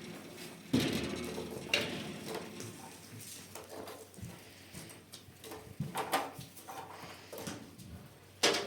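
A few irregular knocks and clatters, each one sudden and then fading out, with the loudest about a second in and another just before the end.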